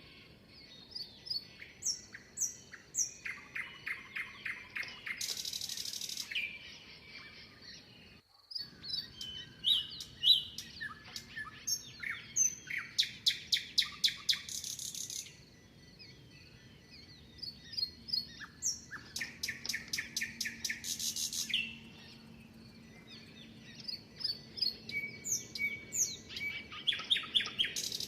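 Several songbirds singing and chirping, with short whistled notes and repeated rapid trills, and a brief cut-out about eight seconds in.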